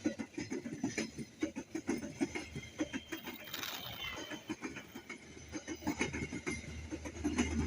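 Quick, irregular clatter of knocks and clicks, several a second, like a train running over the track, with a brief hiss about three and a half seconds in.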